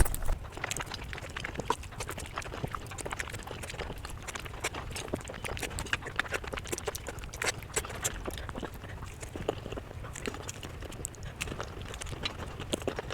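Close-miked eating sounds: a quick, irregular run of sharp crunches and wet mouth clicks from chewing, several a second.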